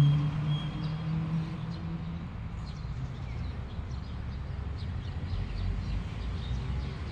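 Small birds chirping intermittently in short, high notes over a steady low outdoor rumble, after a held low note of background music dies away in the first two seconds.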